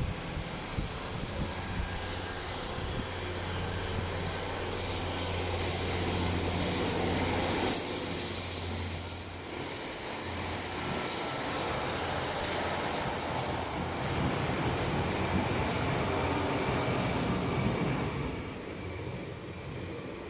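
Train running on the track, growing louder towards the middle, with a high-pitched wheel squeal that starts suddenly about eight seconds in, lasts about five seconds, and comes back briefly near the end.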